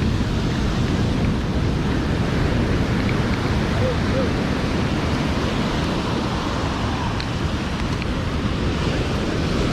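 Steady wash of ocean surf on a sandy beach, mixed with wind buffeting the microphone, with brief faint voices about four seconds in.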